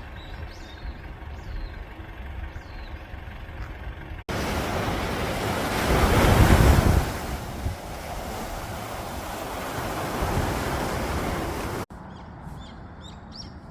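Sea surf washing on a sandy beach, a steady wash of noise that swells to its loudest in a surge of breaking water partway through. The sound changes abruptly twice where clips are spliced, with faint chirps in the quieter stretches before and after.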